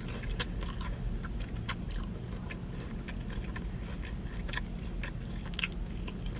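A person chewing a cheesy Korean corn dog coated in potato cubes, with scattered wet mouth clicks, over a steady low hum inside a car.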